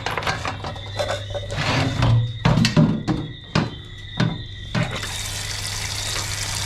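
A run of sharp knocks and clatters, then water running or pouring from about five seconds in.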